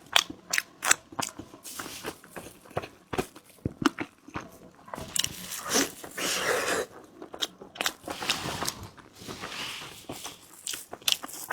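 Close-up eating sounds of chewy glutinous rice treats: mouth chewing with many irregular clicks and smacks.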